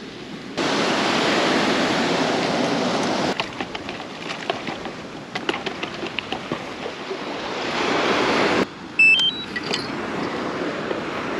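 Surf washing on a sandy beach, with wind on the microphone. About nine seconds in comes a short run of high beeps stepping upward.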